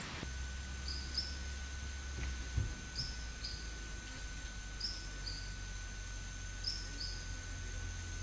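A bird calling: a pair of short, high chirps repeated about every two seconds, five times.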